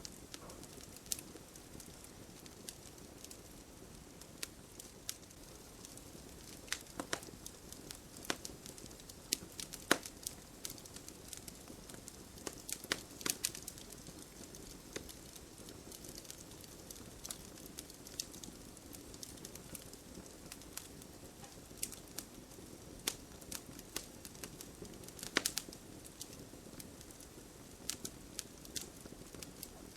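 Campfire burning, crackling with irregular sharp pops over a steady low hiss of flames, the loudest pops about ten seconds in and again around twenty-five seconds.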